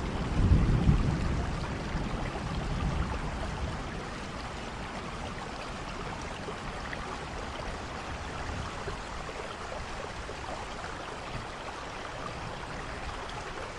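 Steady rain falling, with a low rumble of thunder in the first few seconds that fades away.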